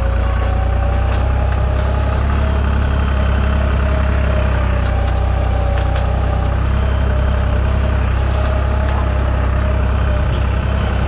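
Deutz 55F tractor engine running steadily under load while pulling a cultivator, with a fainter whine above the engine note that rises slightly at the start and then holds steady.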